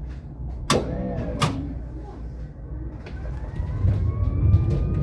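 Tram pulling away: two sharp knocks about a second in, then the electric traction motors whine, rising slowly in pitch, over a low rumble that grows louder as the tram gathers speed.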